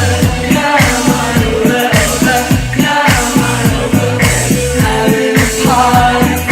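Electro-pop band playing live: a steady drum beat of about four strokes a second under a bass line, with a sung vocal melody over it.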